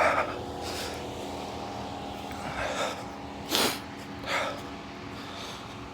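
Diesel truck engine idling with a steady hum, broken by a few short puffs of noise close to the microphone.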